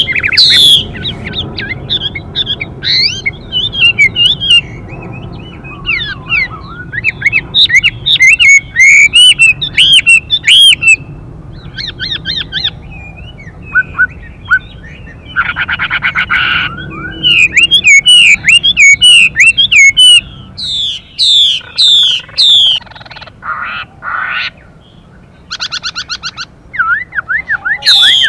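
Chinese hwamei song: a male singing fast, varied whistled phrases that swoop up and down. These are broken by a few harsh, rasping bursts, the female's 'xùy' calls, about halfway through and twice more near the end.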